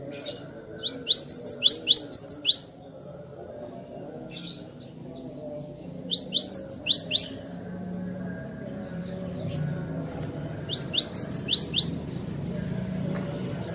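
Cinereous tit (glatik batu) singing: three quick bursts of sharp, rising whistled notes, five to seven notes in each, a few seconds apart, over a low steady background rumble.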